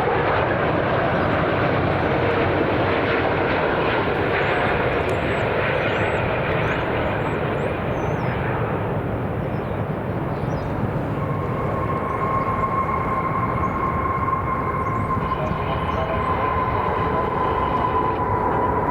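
Jet airliner engines, a steady loud rush of engine noise. About eleven seconds in, a high steady whine joins the rush and holds to the end.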